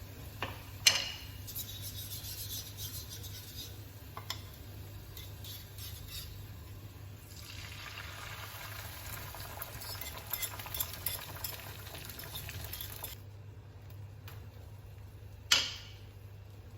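Stirring and light scraping in a dish, with small clinks of a utensil and two sharp clinks, one about a second in and one near the end, over a steady low hum.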